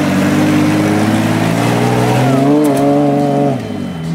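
Jeep Wrangler Rubicon's engine pulling under throttle as the Jeep crawls through a muddy rut. Its pitch rises and wavers a little past halfway, then drops near the end as the throttle eases.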